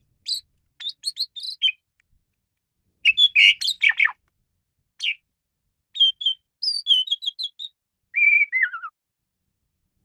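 Male Asian pied starling (jalak suren) singing a varied song: short phrases of whistles, chirps and quick note runs with silent gaps between them, ending with a downward-sliding whistle about eight seconds in.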